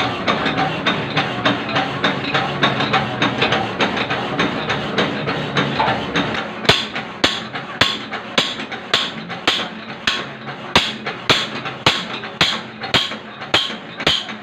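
Keyway cutting in metal: rhythmic metal-on-metal knocks, rapid and dense over a steady hum at first, then from about six and a half seconds in, sharper ringing strikes about two per second.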